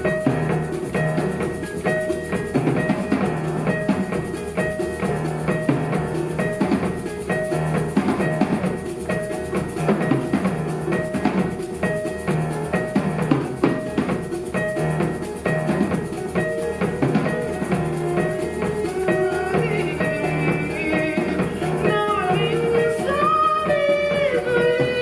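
Live instrumental ensemble music driven by a shaker-like rattle and drums, with a repeated pitched figure underneath. A gliding melodic line comes in near the end.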